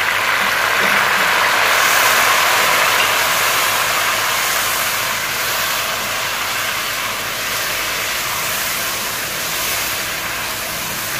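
Mutton pieces and fried onions sizzling loudly in hot oil in an aluminium pot, the hiss of garlic-ginger water just added to the oil. The sizzle swells over the first couple of seconds, then slowly eases.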